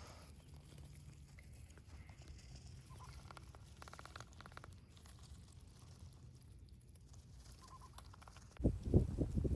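Faint sounds of Muscovy ducks: soft clicks and taps over a low steady hum. Near the end a loud rumbling gust of wind hits the microphone.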